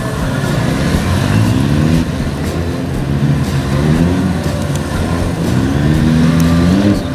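Motorcycle engine at low speed, its revs climbing and dropping back about three times in a row.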